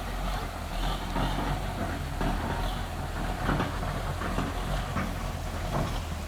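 DT-75 crawler tractor's diesel engine running steadily, with irregular clanks and rattles over the low drone.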